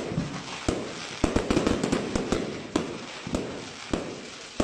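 Professional fireworks display: shells bursting in rapid, irregular succession, sharp bangs coming in clusters several a second, each followed by an echoing rumble.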